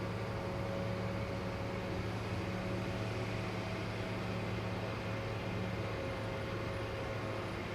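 Steady machine drone of airport apron equipment, with a low hum and a faint steady higher tone throughout.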